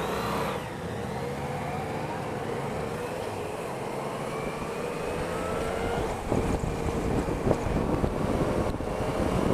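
Yamaha Niken GT's three-cylinder engine running at a steady road pace over a rush of wind and road noise; its note climbs briefly at the start.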